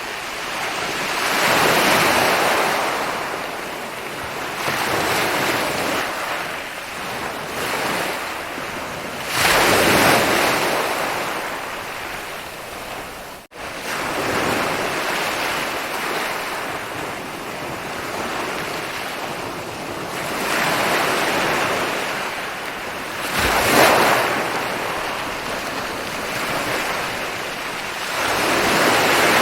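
Ocean waves rolling in and breaking on a beach, the surf swelling and fading every few seconds. About halfway through, the sound drops out for an instant.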